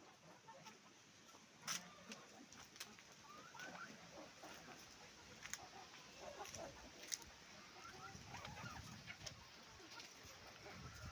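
Chickens clucking softly, with short scattered calls and a few sharp clicks about two, five and a half and seven seconds in.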